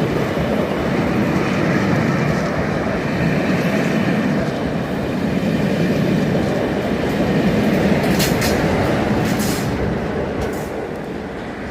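Locomotive-hauled passenger train running past, wheels rumbling and clattering over the rail joints, with a few brief high squeals of wheel on rail about eight to ten seconds in.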